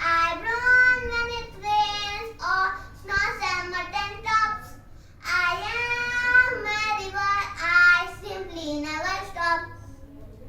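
A child's voice singing a poem unaccompanied, in melodic phrases with held notes and a short pause about halfway through.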